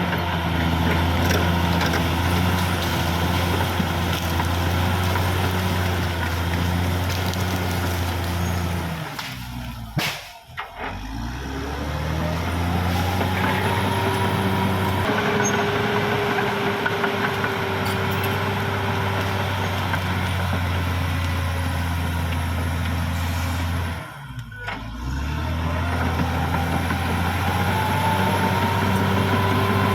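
Caterpillar D6R XL bulldozer's diesel engine running steadily at working revs. Twice, about ten seconds in and again past the twenty-second mark, the engine note sags briefly and then climbs back up.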